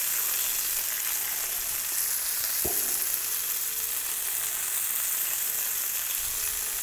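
Salmon fillets sizzling in butter on a Blackstone flat-top griddle, a steady frying hiss. One short knock about two and a half seconds in.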